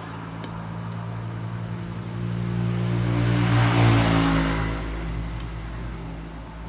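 A motor vehicle passing close by, swelling to its loudest about three to four seconds in and then fading, over a steady low hum.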